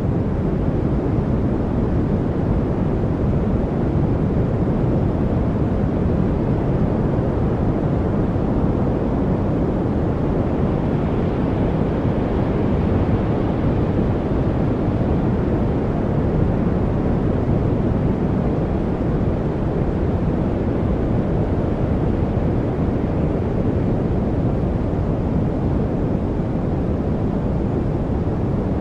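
Steady noise from a study noise track, deep and rushing, with most of its weight in the low range and little hiss up top, holding even throughout with no birds, drips or other distinct sounds in it.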